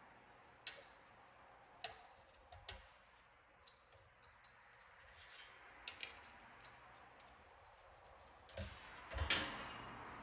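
Faint, scattered light clicks and taps of small objects being handled, with a few louder knocks and rustling near the end.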